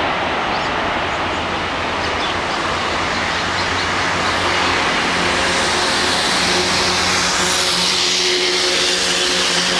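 Boeing 777-200ER jet engines running as the airliner passes, a loud steady roar. From about halfway, steady engine tones and a higher whine come in and grow stronger toward the end.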